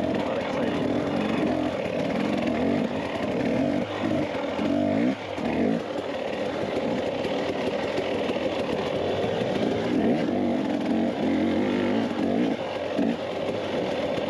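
Dirt bike engine running while riding, the throttle rising and falling, with a brief drop in engine sound about five seconds in.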